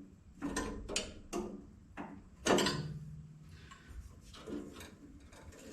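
A series of sharp metal knocks and clanks from hand tools and parts being handled on the tractor: about five in the first two and a half seconds, the loudest near the middle with a short ring after it, then quieter fiddling.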